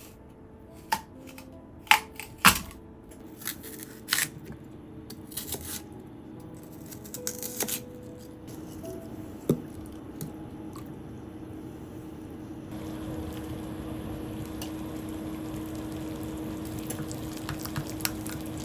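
Kitchen handling sounds: scattered sharp clicks and knocks of utensils and containers, then, from about two-thirds of the way in, a steady hiss with a low hum.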